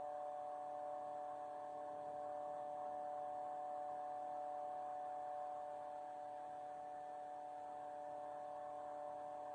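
A steady electrical-sounding hum made of several fixed tones over faint hiss, unchanging throughout, with no piano notes played.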